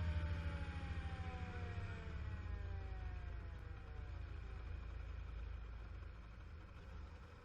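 Fire engine siren winding down in one long falling pitch that fades out about four seconds in, over the steady low rumble of the fire engine's engine.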